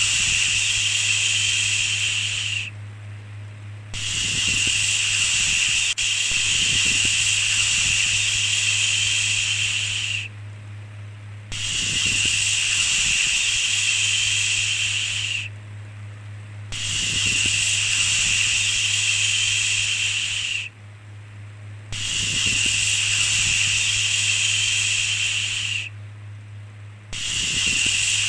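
Long 'shhh' shushing sounds, each lasting about four to six seconds, repeated with pauses of about a second between them, over a steady low hum.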